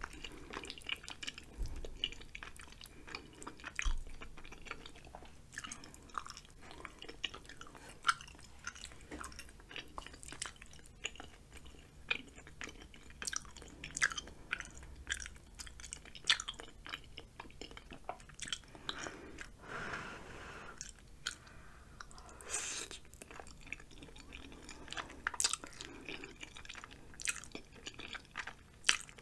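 Close-miked chewing of spicy cheesy ramen noodles and chewy rice cakes: irregular wet mouth clicks and smacks, with a couple of longer noisy mouth sounds about two-thirds of the way through.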